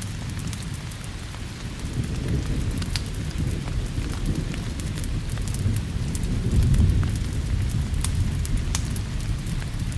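Steady rain with a continuous low rumble of thunder, and scattered sharp pops from a crackling wood fire.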